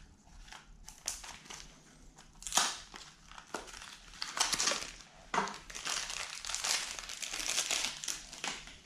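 Irregular crinkling and rustling handling noise, with a sharp knock about two and a half seconds in and denser, longer rustling in the second half.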